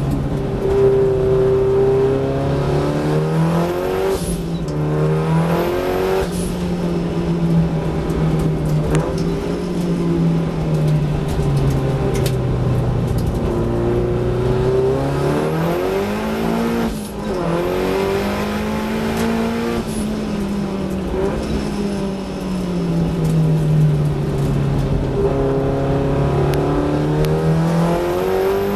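Datsun 1600 race car's four-cylinder engine, heard from inside the cockpit, revving up and down hard through the corners. The pitch climbs and drops repeatedly, with short breaks at gear changes about four, six and seventeen seconds in.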